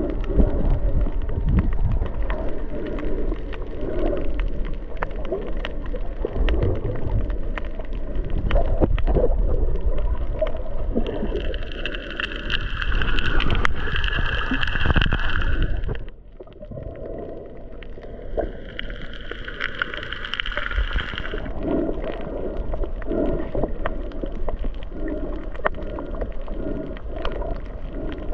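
Boat under way: a loud, steady rumble of engine, wind and water. Twice a higher-pitched whine rises over it for a few seconds. About halfway through, the overall level drops suddenly.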